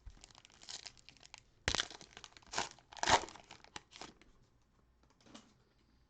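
Cellophane wrapper of a trading-card cello pack crinkling and rustling as it is handled, in a few short bursts.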